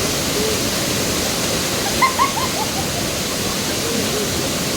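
Steady rush of flowing water from a forest stream or waterfall. About two seconds in, a short run of high, falling notes sounds over it.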